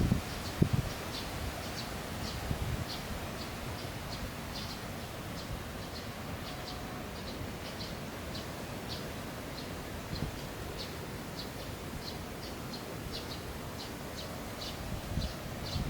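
A small bird chirping over and over, short high chirps a few times a second, over a steady low outdoor background noise.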